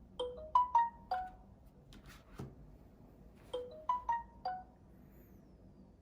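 A short five-note electronic chime melody, like a ringtone, played twice about three seconds apart.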